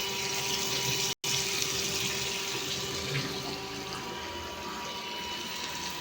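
Butter melting and sizzling in a hot tempering pan, a steady hiss that eases slightly after a few seconds, broken by a short gap just over a second in.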